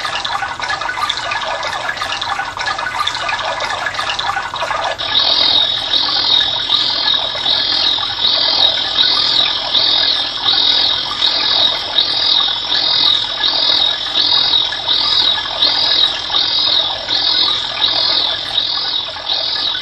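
Natural-sound auditory stimulus played back: a steady water-like rushing, joined about five seconds in by a high chirp repeating about one and a half times a second.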